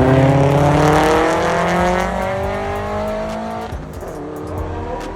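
Car engine accelerating hard, its pitch climbing steadily for nearly four seconds as it pulls away and grows fainter, then dropping suddenly about four seconds in, as at a gear change or lift off the throttle.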